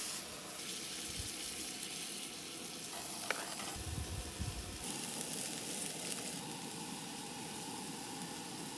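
Chicken fajita filling sizzling steadily in a stainless steel frying pan on a Coleman two-burner propane stove, stirred with a fork, with a light click about three seconds in.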